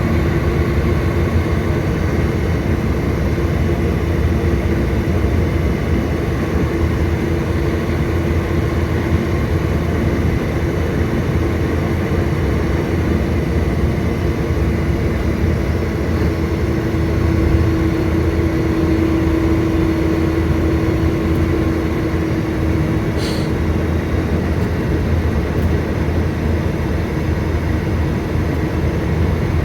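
Volvo B9TL bus's diesel engine running steadily with a low rumble and a steady whining tone that grows louder for several seconds past the middle, then eases back. A single short click sounds about three quarters of the way through.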